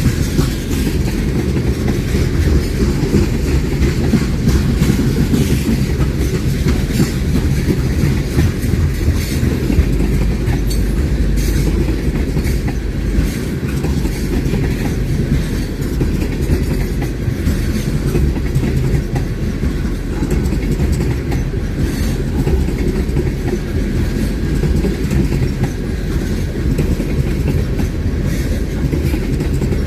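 A train rolling past: a steady, continuous rumble of railcars with wheels clicking over the rail joints.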